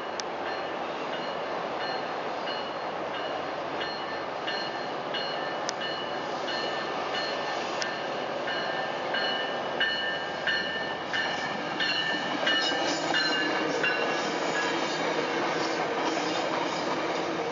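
Railroad crossing bell ringing steadily and repeatedly as a Tri-Rail bilevel commuter train approaches and rolls through the crossing. The train's wheel and rail noise grows louder in the second half as the cars pass close by.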